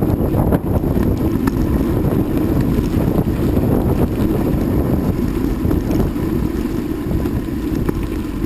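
Steady wind rumble buffeting the microphone while riding, mixed with vehicle running noise.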